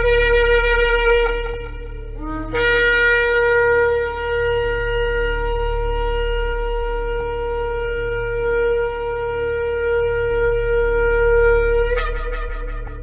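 Shofar blowing: a blast that stops about two seconds in, then after a short lower note, a long steady held blast of about ten seconds that breaks upward at its end near the close. A steady low hum runs underneath.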